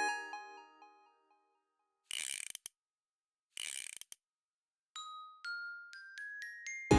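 Background music: glockenspiel-like bell notes die away, then after a short silence come two brief rattling, clicking bursts about a second and a half apart. A run of bell-like notes climbs upward, and the full backing track comes back in near the end.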